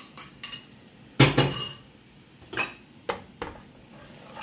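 Metal utensil knocking and clinking against a frying pan during stir-frying: a few quick clinks, one much louder clank about a second in, then a few more spaced taps.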